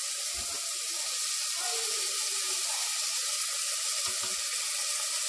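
Tomatoes, onions and ginger-garlic paste frying in oil in a pressure cooker, a steady sizzle. A few soft knocks come about half a second in and about four seconds in.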